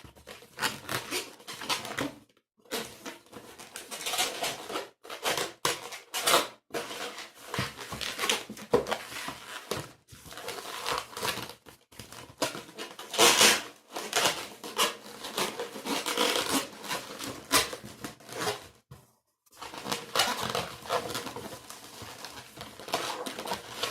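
Long latex modelling balloons being handled and twisted into a stem: irregular rubbery squeaks and rubbing, louder for a moment about halfway through.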